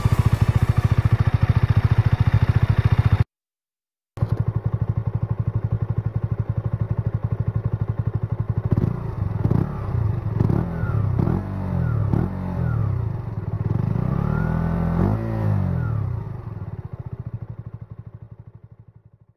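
KTM Duke 125's single-cylinder four-stroke engine idling. About nine seconds in come five quick throttle blips, each revving up and dropping back, and a longer rev follows a few seconds later. The sound drops out for about a second near the start and fades away at the end.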